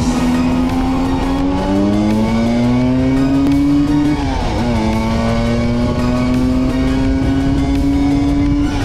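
Vespa V50 two-stroke scooter engine pulling up through the revs, dropping sharply at a gear change about four and a half seconds in, then climbing slowly again.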